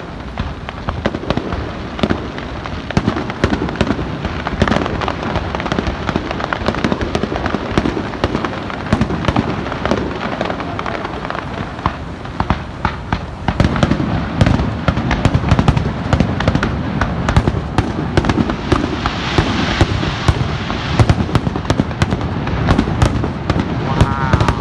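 Aerial fireworks bursting in rapid succession, a steady barrage of sharp bangs and crackles that grows heavier and deeper from about halfway, with a spell of dense crackling near the end.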